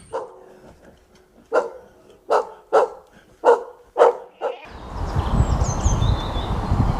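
A dog barking: about six short, sharp barks in quick succession. Near the end it gives way to steady outdoor noise with birds chirping.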